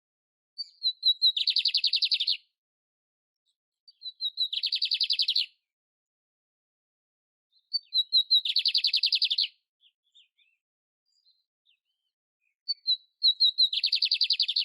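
Canário império singing four short song phrases, about four seconds apart, each a few quick opening notes running into a fast, even trill lasting about a second; the last phrase is cut off.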